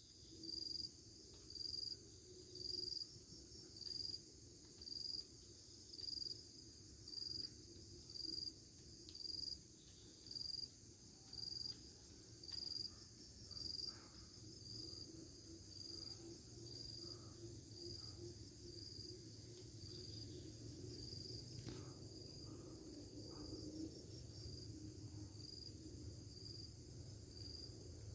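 Insects chirping: a faint high chirp repeating about once a second over a steady, high-pitched insect drone.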